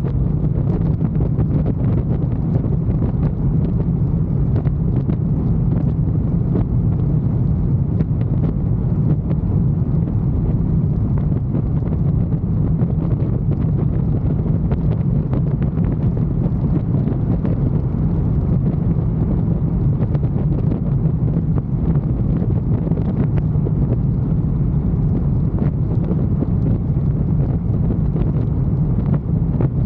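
Motorcycle engine running steadily at cruising speed, with wind rushing over the microphone. The engine note holds even, with no revving or gear changes.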